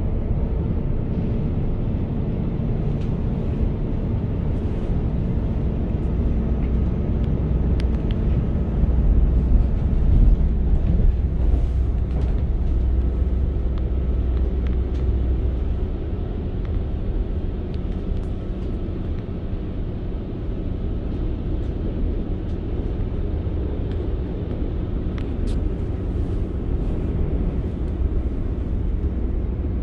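Inside the saloon of a Northern Class 195 diesel multiple unit on the move: a steady low rumble from the underfloor diesel engine and the wheels on the track. The engine note drops about ten seconds in, and there are a few faint clicks.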